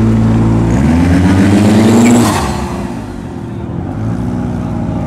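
The twin-engine Eagle Talon's two 2.3-litre 4G63 stroker engines run at steady revs, then climb in pitch for about a second and a half. About two seconds in the pitch and loudness fall away sharply, and the engines settle into a steadier, lower drone.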